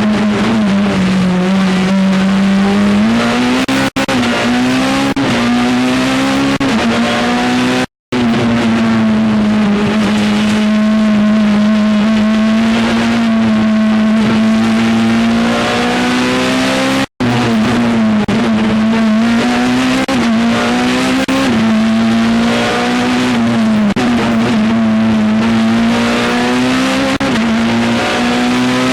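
Peugeot 207 Super 2000 rally car's 2.0-litre four-cylinder engine heard from inside the car at full attack, its note rising and falling again and again as it is driven hard through the gears and slowed for corners. The sound cuts out briefly twice, about eight and seventeen seconds in.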